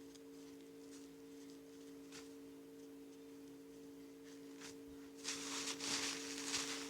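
A steady two-tone electrical hum with a few faint clicks, then rustling and scraping handling noises starting about five seconds in.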